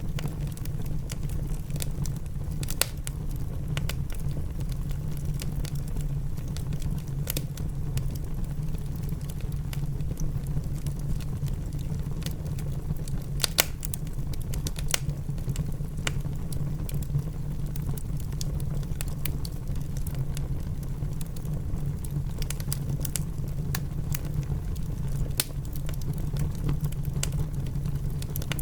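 Wood fire crackling and popping in a fireplace, with irregular sharp snaps, over a steady low rumble of rain.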